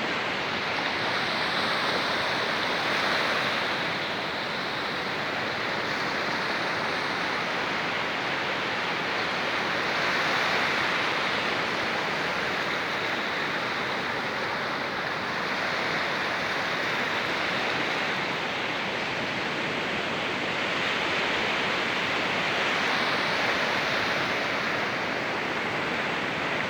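Steady rush of water from a small waterfall and stream pouring into the sea, swelling and easing every several seconds.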